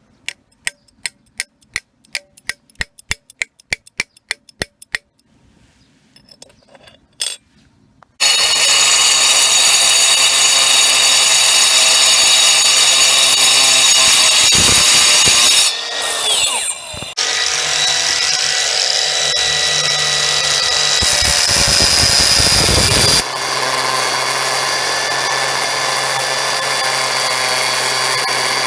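A run of sharp clicks, then a handheld disc cutter fitted with a low-noise diamond stone-cutting blade starts about eight seconds in and runs steadily at speed with a few steady whining tones. It dips briefly around the middle and then carries on running.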